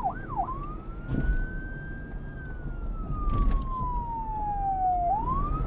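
Police car siren switching from a fast yelp to a slow wail about half a second in: the pitch climbs, then falls slowly for about three seconds and climbs again near the end, over a low rumble.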